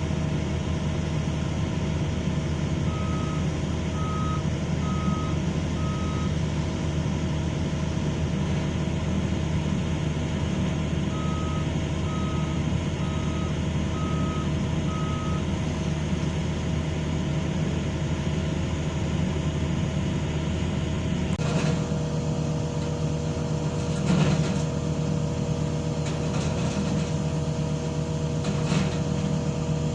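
Heavy excavator diesel engines running steadily, with a travel alarm beeping about once a second in two short runs of four or five beeps. Partway through, the machine sound shifts to a steadier whine with a few knocks.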